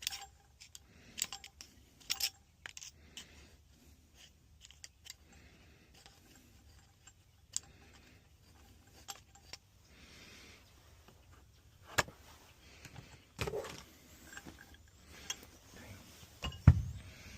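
Tools and metal gas-pipe fittings being handled: scattered light metallic clicks and clinks, with one louder, deeper thump near the end.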